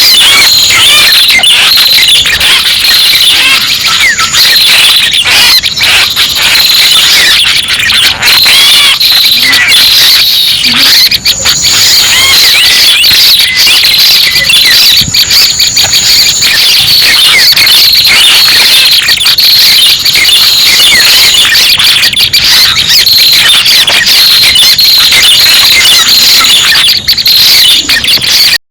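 Bird-trapping lure recording of prenjak calls, the red-headed prenjak type: a dense, unbroken stream of fast, high chirps and trills, very loud.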